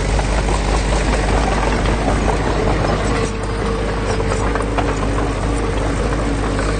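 Diesel engine of a heavy earthmoving machine running steadily, with a constant whine and occasional light clanks over the engine's low note.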